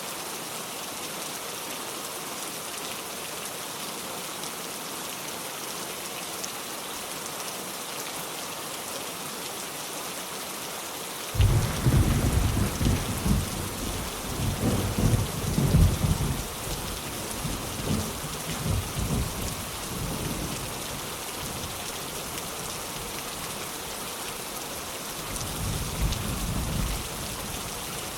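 Heavy rain falling steadily on a metal roof. About eleven seconds in, thunder breaks suddenly and rolls on for about ten seconds, fading; a second, weaker rumble of thunder follows near the end.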